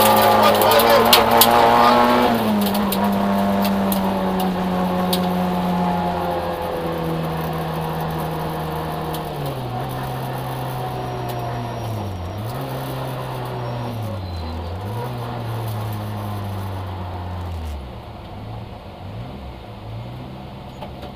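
Citroën AX GTI rally car's four-cylinder engine heard from inside the cabin, running hard for the first couple of seconds, then easing off with its pitch falling in steps. The revs dip and pick up again twice midway, then the engine drops to a lower, quieter run near the end.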